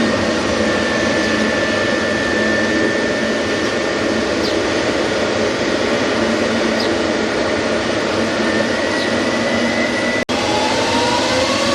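Jet airliner engines running with a loud, steady noise and a thin high whine. About ten seconds in, the sound drops out for an instant, then comes back with whine tones rising in pitch as engines spool up.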